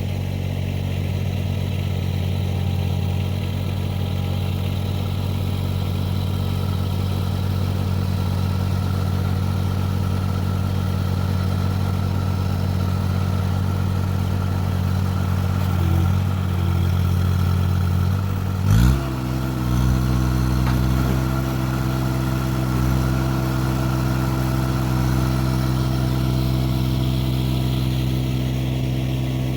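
Tractor engine running steadily at low revs, then throttled up about two-thirds of the way through, with a short knock at the change, and held at higher revs while the box blade's teeth are worked under a buried object to lift it.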